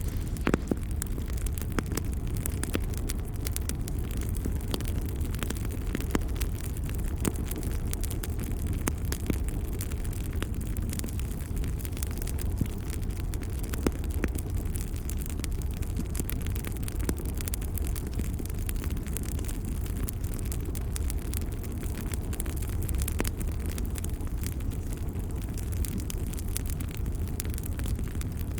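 Wood fire crackling, with irregular sharp pops and snaps over a steady low rumble of burning flames.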